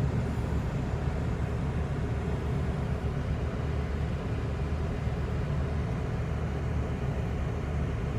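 Chevrolet S-10 Xtreme pickup's engine idling steadily just after a cold start in freezing weather.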